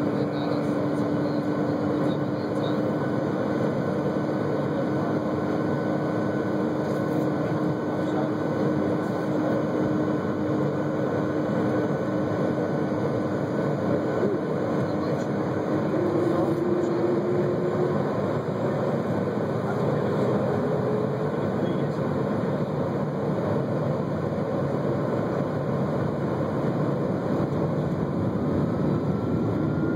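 Boeing 757 jet engines and airframe heard from inside the cabin: a steady rumble with an engine whine that steps up in pitch about halfway through and keeps rising slowly, as the engines spool up.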